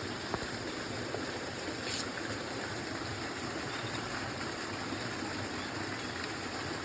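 Water flowing steadily in a small spring-fed stream, an even rushing that does not change, with a faint click about a third of a second in and another about two seconds in.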